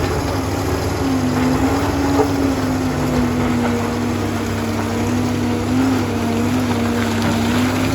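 Liebherr PR 746 crawler dozer's diesel engine running steadily under work, its pitch wavering slightly up and down.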